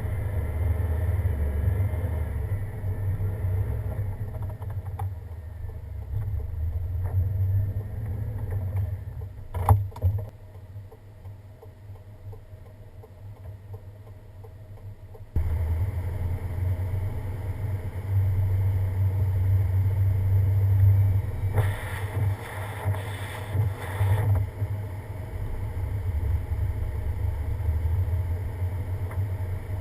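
Pickup truck driving on a snow-covered winter road: a steady low rumble of engine and tyres. There is a sharp knock about ten seconds in, then a quieter stretch before the rumble returns abruptly, with a rougher patch a few seconds later.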